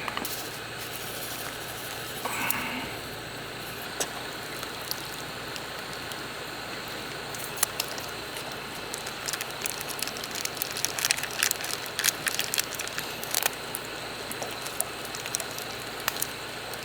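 Wood fire crackling, with scattered sharp pops over a steady hiss. The pops come thickest in the middle stretch.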